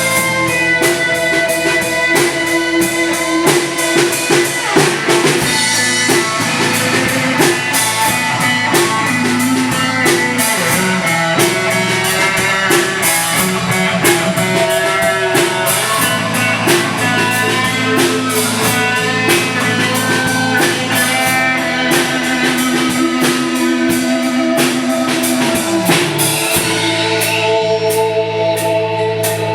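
Live rock band playing an instrumental passage between verses: guitars over a steady drum-kit beat.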